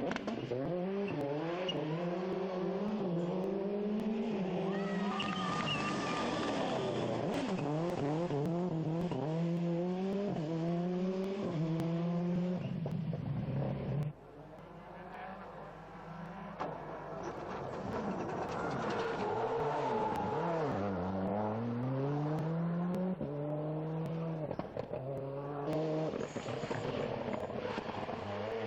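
Turbocharged four-cylinder World Rally Cars at full throttle on a stage, each engine climbing in pitch through a run of quick upshifts. The sound cuts off suddenly about halfway, and a second car comes in, its engine falling low as it brakes and downshifts, then climbing again gear by gear as it accelerates away.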